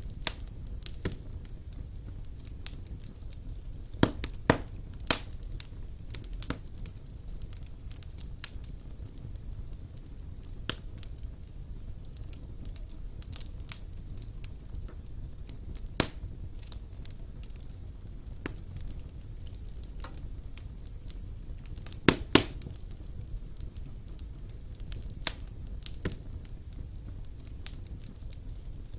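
Wood fire burning in a fireplace: a low steady rumble of flames with irregular sharp crackles and pops from the burning logs, a cluster of loud pops about four seconds in and another about twenty-two seconds in.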